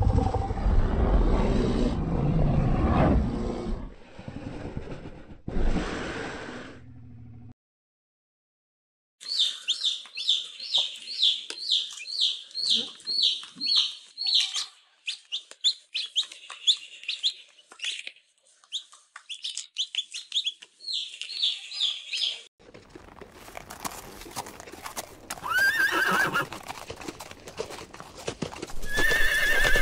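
Three animal sounds in turn. First a brown bear's deep, rough growling for about seven seconds, then a brief silence. Then a chick's rapid high peeping, several peeps a second for about thirteen seconds, followed near the end by zebras calling with high yelping barks over the sound of their hooves.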